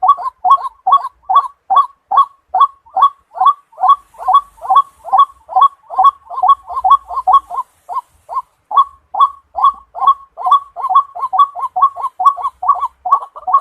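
White-breasted waterhen calling: short loud notes repeated steadily about three times a second, with a brief break about eight seconds in.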